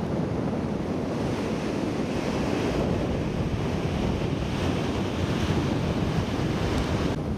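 Pacific surf breaking and washing on a sandy beach, a steady rush, with wind buffeting the microphone.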